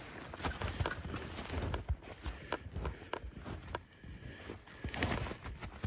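Footsteps walking through snow, an uneven run of steps with small clicks and knocks.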